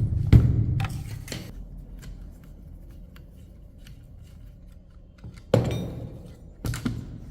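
A few sharp, heavy thuds, the first two close together near the start and two more after a quiet stretch of about four seconds.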